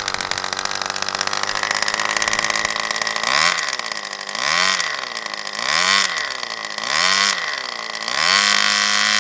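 Micron 10cc flat-four two-stroke RC model engine idling steadily, then blipped on the throttle about five times, its pitch rising and falling with each blip. The last rev is held high near the end.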